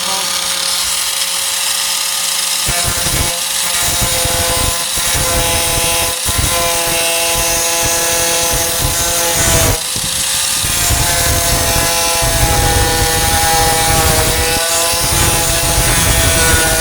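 A 4-1/2 in. electric angle grinder running against the steel tailgate, its motor whine shifting in pitch under load. It spins freely at first, then rough grinding noise joins it a few seconds in, with a brief easing about ten seconds in before it bears down again.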